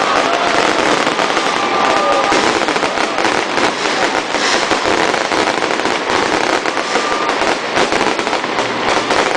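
A fireworks display going off in dense, continuous crackling with many rapid pops.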